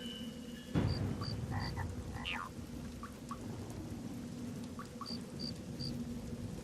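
Frogs calling, with short high peeps in groups of three and a few chirps. A sudden low rumble comes in about a second in and fades away.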